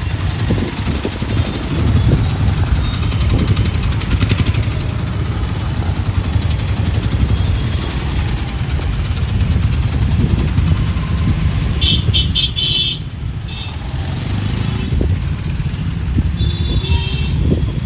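Busy city road traffic of motorcycles and cars running past, with a quick series of short horn beeps about twelve seconds in and another horn near the end.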